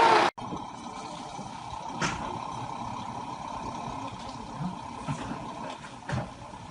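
A heavy vehicle engine running steadily, with a few faint knocks.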